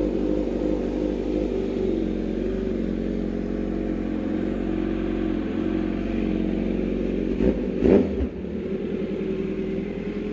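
Kawasaki Z900 inline-four engine idling steadily while warming up after a cold start, with a quick rev that rises and falls about eight seconds in.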